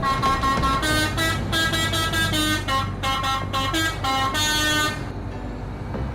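Multi-tone musical vehicle horn playing a quick tune of short notes, cutting off about five seconds in, over a steady low rumble.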